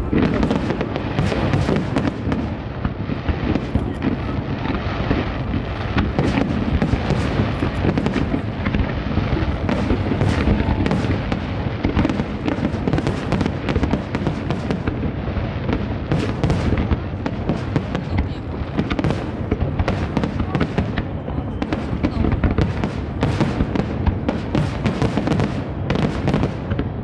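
Fireworks display going off in a dense, continuous barrage: many sharp bangs and crackles each second over a deep rumble, with the show's music underneath.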